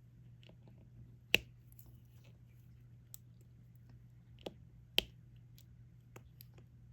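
Sharp clicks of a diamond-painting drill pen tapping resin drills onto the sticky canvas: two loud ones about a second and a half in and at five seconds, with fainter taps between, over a low steady hum.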